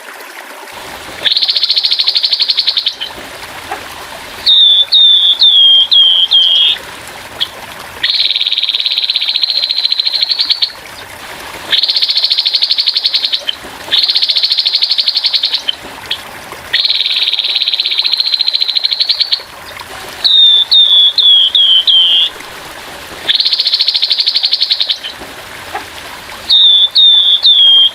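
Grey-headed babbler repeating harsh rattling trills, each lasting one to two seconds. These alternate with quick runs of about six short down-slurred notes, over a faint steady trickle of water.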